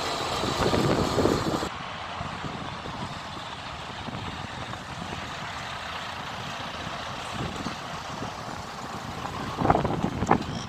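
Heavy truck engines running steadily, louder for the first second or so, with a brief loud noise near the end.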